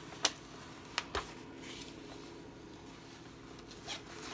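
A rolled diamond painting canvas being handled and flattened by hand: a few sharp taps and rustles, the loudest about a quarter second in, two more about a second in.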